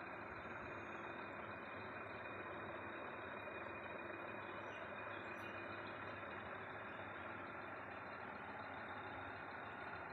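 Steady, even background noise with no distinct events, at a constant low level.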